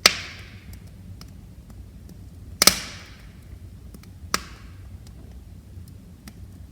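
Wood fire crackling in a fireplace stove: three loud sharp pops, one right at the start, one about two and a half seconds in and a smaller one about four seconds in, with faint small ticks between them over the low steady rush of the flames.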